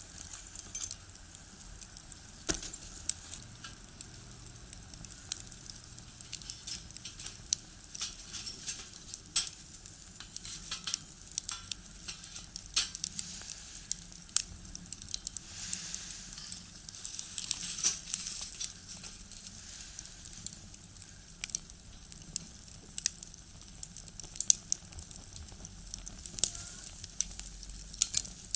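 Firewood burning in a box stove, crackling with irregular sharp pops over a steady hiss of flames; the hiss swells for a few seconds around the middle.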